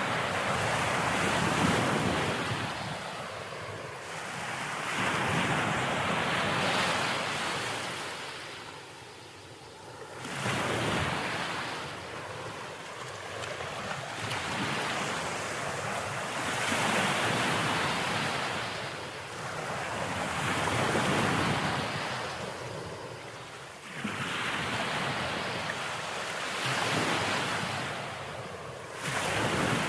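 Ocean waves breaking and washing on the shore, the surf swelling and fading every few seconds, with sharper breaks about a third of the way in, about four-fifths in, and near the end.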